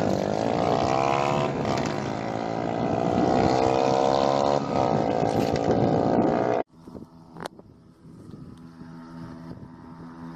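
Motorcycle engines running and revving, the pitch rising and falling. About two-thirds of the way in the sound cuts off abruptly, leaving a much quieter steady hum.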